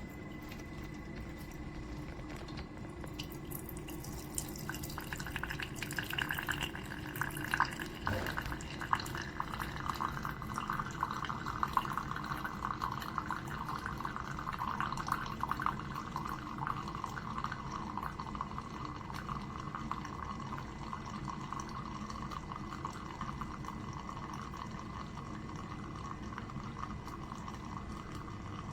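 Horavie Mini single-serve coffee maker brewing: coffee streams and drips into the cup from about five seconds in, over a steady low hum.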